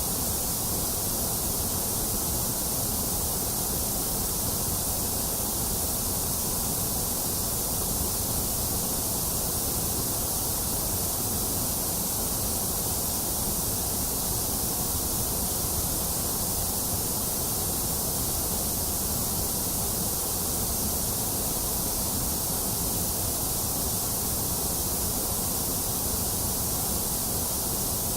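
Steady, unchanging white noise hiss played for soothing a baby, with more hiss in the highs and the lows than in the middle.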